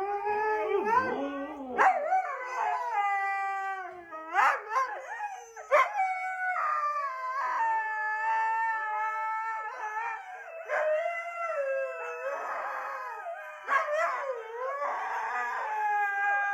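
A dog howling in long drawn-out howls that waver and slide in pitch, one after another with short breaks.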